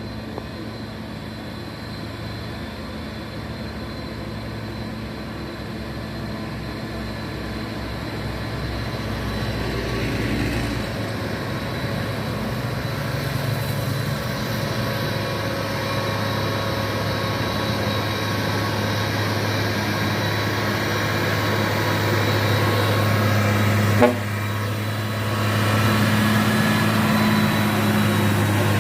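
Heavy diesel truck engine labouring up a steep climb, its deep steady hum growing louder as it draws nearer. About 24 seconds in there is a sharp knock, the engine sound dips briefly, then it picks up again.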